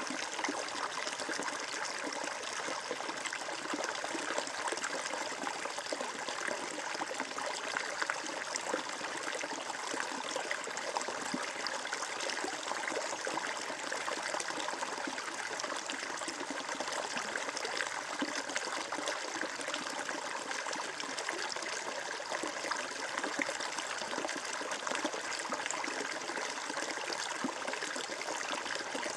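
Water flowing and trickling steadily, a continuous even splashing rush with no breaks.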